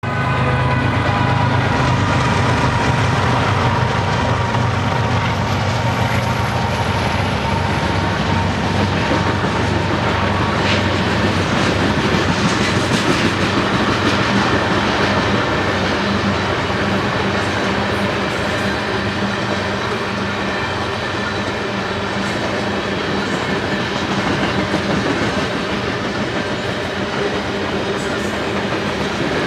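Freight train passing: diesel locomotive engines, strongest in the first several seconds and fading, then a long string of tank cars rolling by with wheels clacking over the rail joints.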